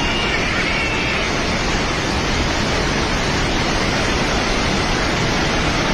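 Floodwater rushing past in a loud, steady roar.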